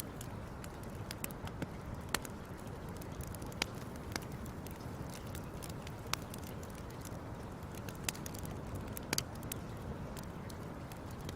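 Fire crackling: irregular sharp pops and snaps over a steady low rush, with a louder pop about two seconds in and a quick pair of pops near nine seconds.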